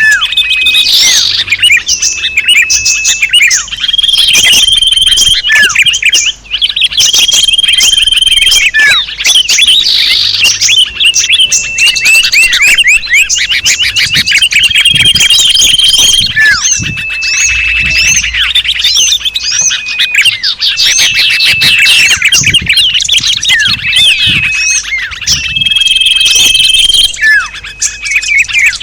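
A loud, dense mix of many small songbirds chirping and calling together, a combined lure recording meant to draw small birds in. A flat whistled note repeats about every two seconds through the quick chirps and falling notes.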